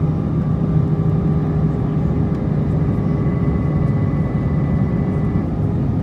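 Steady cabin noise of an Airbus A320-232 airliner in flight: a low rush of airflow and its twin IAE V2500 engines, with faint steady whining tones over it.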